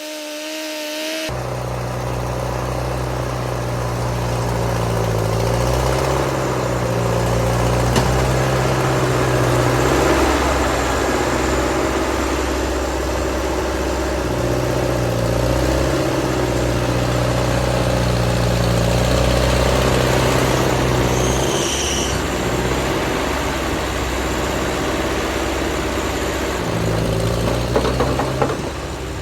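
Ford N-series half-track tractor's four-cylinder engine working under load while plowing snow, its pitch rising and falling with the load. A brief high squeak comes about three-quarters of the way through.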